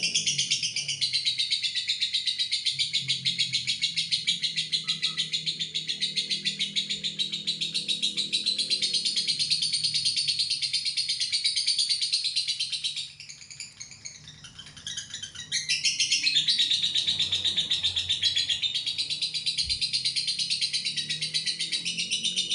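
Lovebird's long 'ngekek' song: a continuous, rapid, high-pitched chattering trill. It breaks off briefly about 13 seconds in and resumes after about two and a half seconds.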